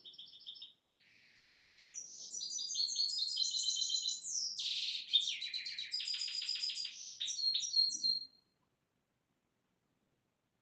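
A songbird singing: a short high chirp at the start, then from about two seconds in a long, rapid run of high chirps and trills that stops about two seconds before the end.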